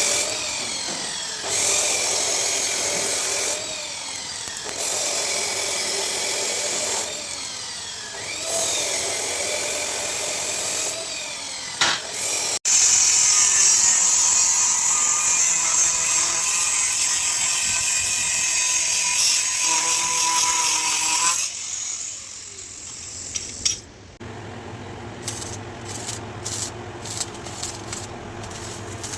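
Handheld power tool running under load in several runs, the pitch sagging and recovering as it bites. The longest run lasts about eight seconds and stops around 21 seconds in, leaving a quieter low hum with light clicks.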